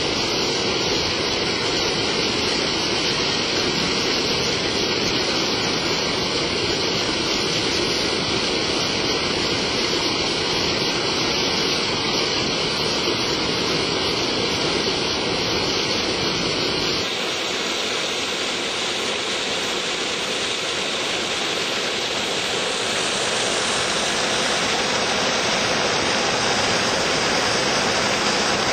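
Water rushing steadily over a small fall in an irrigation canal. About two-thirds of the way through, the deep rumble drops away and the rush turns hissier.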